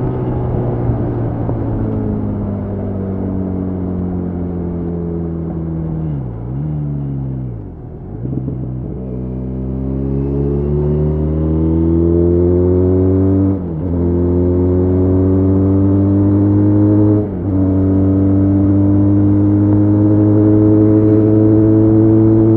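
Benelli Leoncino 500's parallel-twin engine heard from the rider's seat: the engine note falls as the bike slows for the first six seconds or so, dips briefly, then climbs again as it accelerates, with two quick drops in pitch where it shifts up a gear, about two-thirds and three-quarters of the way through.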